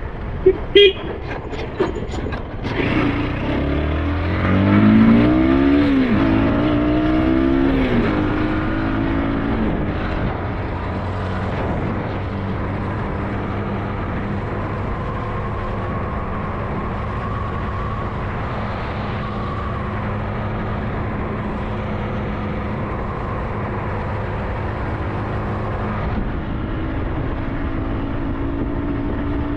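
SYM NH T 200 motorcycle engine under way. A few sharp clicks come at the start, then the engine pitch rises and drops several times as it picks up speed. From about ten seconds in it runs steadily at a constant pitch, with road and wind noise underneath.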